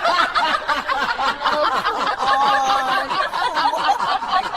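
Several people laughing hard at once, overlapping giggles and chuckles.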